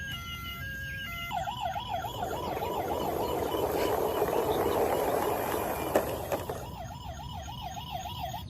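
A toy vehicle's electronic siren warbling rapidly, several wobbles a second, after a few short stepped electronic beeps. A rushing noise takes over mid-way, and the warbling siren comes back near the end.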